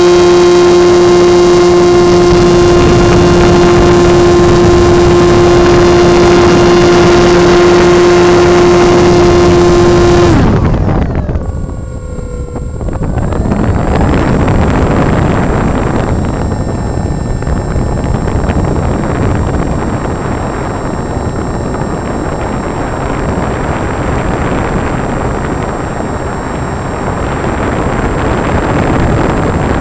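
Electric model plane's brushless motor and propeller running at a steady high whine, heard from a camera mounted on the plane. About a third of the way in the throttle is cut and the whine spins down, leaving wind rushing over the microphone as the plane glides.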